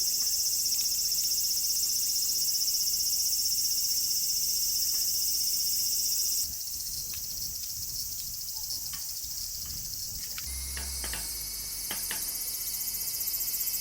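Dense chorus of insects chirping: a steady, high-pitched, pulsing din. It drops and changes character abruptly about six seconds in, changes again about ten seconds in, and a few faint clicks sound in the later part.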